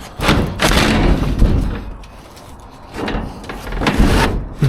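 Two long stretches of scraping and rattling, about a second and a half each, as scrap is shifted and dragged around by hand.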